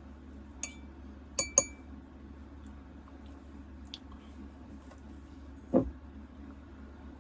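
Three small clinks of tableware, each with a brief ring, in the first two seconds, then a dull thump about six seconds in, over a steady low hum.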